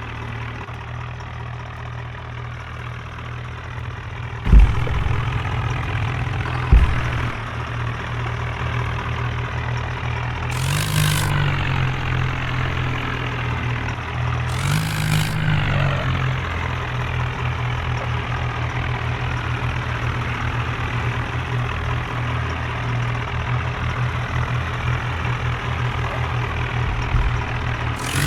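Tractor engine running steadily, revved up briefly twice in the middle. Two sharp knocks come a few seconds in; the first is the loudest thing heard.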